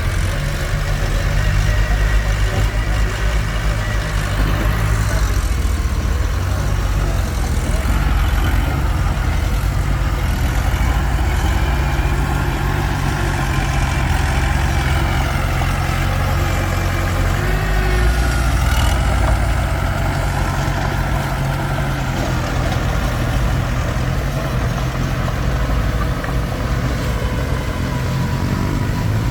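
Komatsu D21P bulldozer's diesel engine running steadily while working, with a deep, even drone and a higher whine that slowly rises and falls through the middle.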